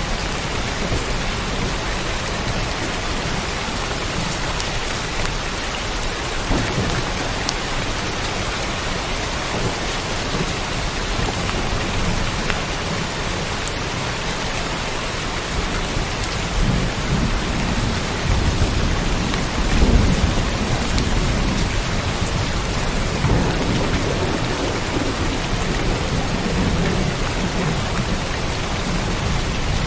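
Steady rain with thunder rumbling low in the second half, loudest about two-thirds of the way in.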